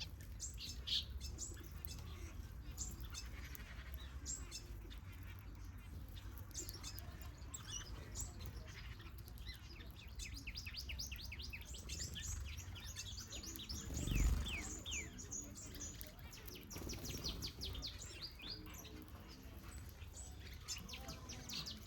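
Small aviary birds, finches and softbills, chirping with many short high notes, and a fast run of quickly repeated falling notes partway through. A dull thump sounds about two-thirds of the way in, over a steady low hum.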